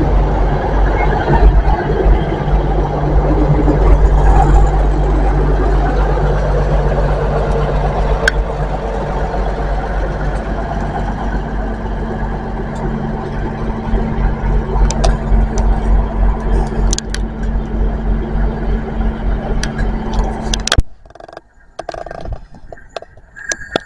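GWR diesel train pulling out of the station, its engines running with a steady low hum over wheel and rail noise that eases gradually. The sound cuts off abruptly about 21 seconds in, leaving a much quieter outdoor background.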